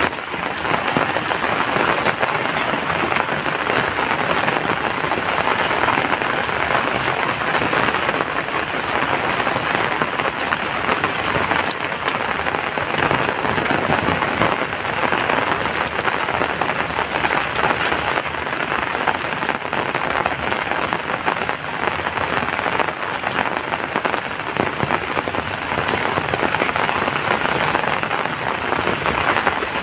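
Heavy rain falling steadily, a dense even hiss of drops with the odd sharper drop tick standing out.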